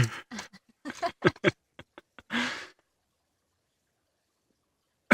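Dog crunching and chewing cicadas: a quick series of short, sharp crunching clicks over the first second and a half, then a short breathy puff about two and a half seconds in.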